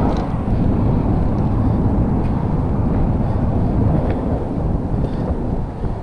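Wind buffeting an action camera's microphone during a mountain-bike ride, a steady low rumble with a few faint ticks.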